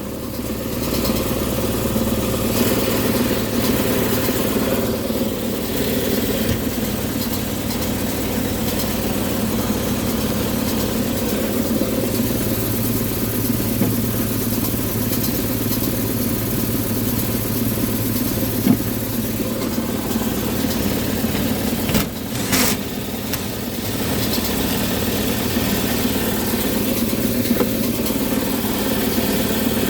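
Goodman furnace's indoor blower running with a steady, heavy hum and vibration from its destroyed blower wheel and housing, with a pair of sharp knocks about two-thirds of the way through. The shaking is what the technician takes to be rattling the control board and wiring and making the contactor act up with intermittent low control voltage.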